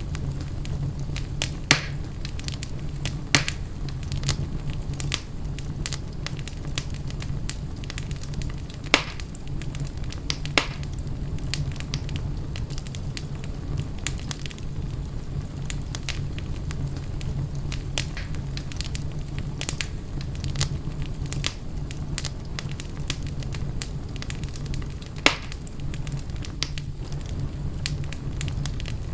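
Wood fire in a fireplace crackling, with scattered sharp pops over a steady low rumble; a handful of pops stand out louder than the rest.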